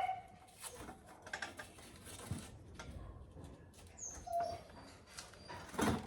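Quiet, scattered clicks and smacks of someone chewing food close to the microphone, with a louder click near the end.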